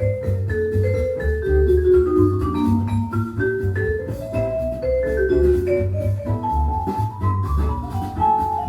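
Jazz record playing on a Dual CS 505-4 belt-drive turntable: a bass line under a melody of struck, bell-like notes. The pitch is held steady, the sign that the replacement belt has cured the turntable's speed problem.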